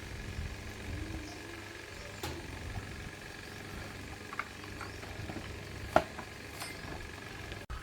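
Scattered light metallic clicks and clinks over a steady hum, with one sharper click about six seconds in.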